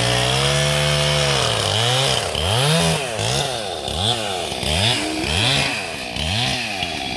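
Chainsaw engine running at a steady speed, then from about two seconds in revving up and dropping back again and again, roughly every two-thirds of a second.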